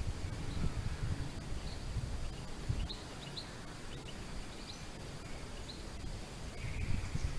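Waves washing on the shore, heard as a low, uneven rumble, with a few short high bird chirps around the middle.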